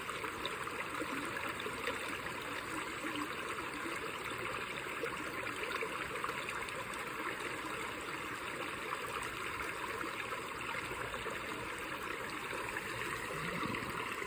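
Stream water running, a steady, even rush with no pauses.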